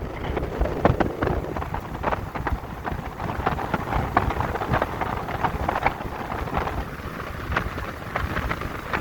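Freshly rebuilt Ford Coyote V8 car driving slowly, its engine and road noise a low rumble under a rushing noise, with many irregular sharp ticks and rattles throughout.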